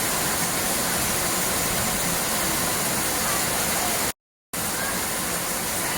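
Steady rushing noise with no distinct events, cut off to dead silence for about half a second a little after four seconds in, then resuming.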